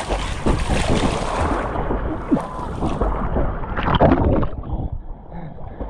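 Seawater splashing and sloshing around a camera held by swimmers, with wind on the microphone. The sound turns muffled about two seconds in, and there is a louder splash around four seconds.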